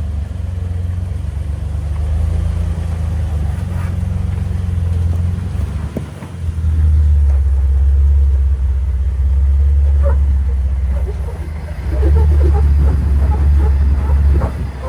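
Jeep engine running at low revs while crawling over rock, with a deep steady rumble. It eases off briefly twice and comes back stronger.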